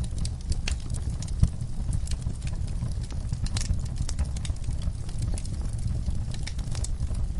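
Wood fire burning in a fireplace, crackling with frequent irregular pops and snaps over a low steady rumble of the flames.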